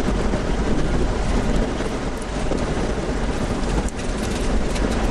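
Roar of a nearby tornado: steady, heavy wind noise with gusts buffeting the microphone, and a few sharp ticks in the second half.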